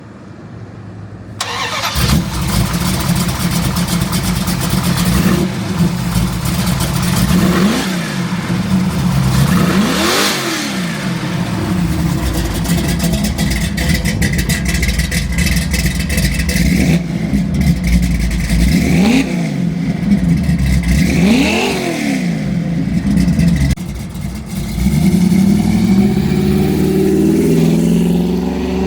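1968 Plymouth Road Runner's V8 engine starting about two seconds in and idling. It is revved up and back down about four times, then the revs climb steadily near the end.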